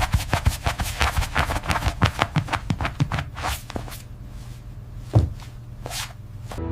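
Rapid, irregular taps and clicks, several a second, thinning out after about four seconds to a few scattered ones, one of them louder, over a steady low hum.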